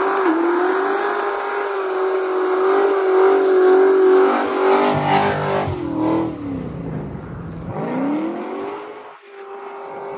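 Supercharged LSA V8 in a 1971 Chevelle held at high revs during a burnout, the rear tyres spinning. The revs hold steady, drop off about five seconds in, then climb again near the end.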